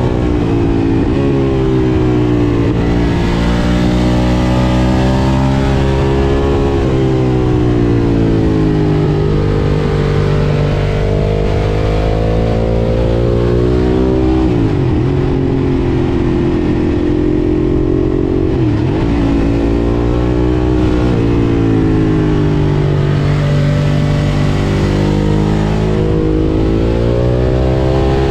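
Ducati Monster 1200 S's 1198 cc L-twin engine through an Akrapovič exhaust, heard while riding: engine speed rises and falls as the bike accelerates and eases off, with two quick drops and recoveries in pitch about halfway through, under steady wind noise.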